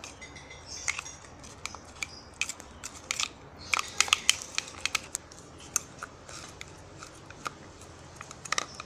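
Freshly activated slime being worked by hand in its container, making irregular sticky clicks and pops, with a flurry of them about four seconds in and again near the end.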